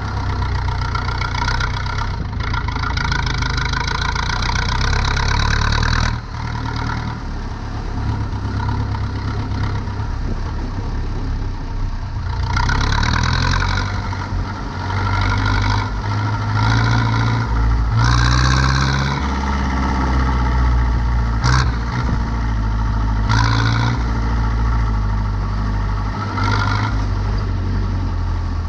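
Zetor 7245 tractor's four-cylinder diesel engine running steadily while turning hay. Its note dips and changes pitch about six seconds in, and brief spells of higher-pitched noise come and go in the second half.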